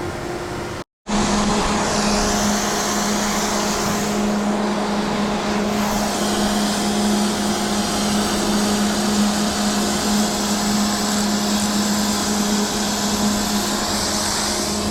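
Steady wind rushing over the microphone during a chairlift ride, with a constant low machine hum. A brief cut to silence about a second in.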